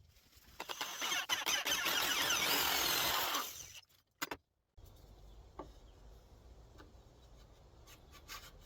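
Power drill boring a half-inch hole through a 2x6 wood block, running with a high whine for about three seconds and then stopping. A brief burst follows, then only faint low hum.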